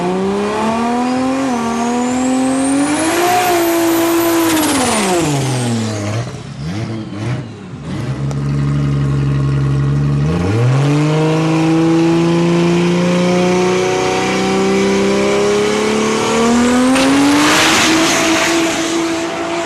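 Drag racing car engine accelerating hard, its pitch climbing for a few seconds and then falling away. It settles low and steady for a couple of seconds, then climbs again for most of the rest. A thin high whistle rises and falls with each climb.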